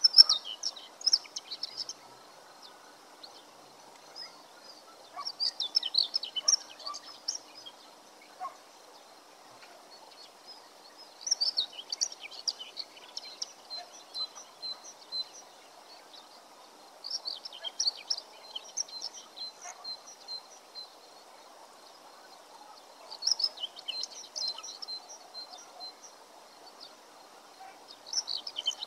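A songbird singing short chirping phrases of about two seconds, repeated roughly every six seconds, over steady faint background noise.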